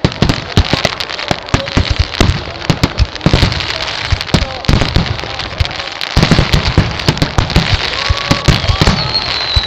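Fireworks going off in a dense run of bangs and crackling, heavier from about six seconds in. Near the end a high whistle glides slowly down in pitch.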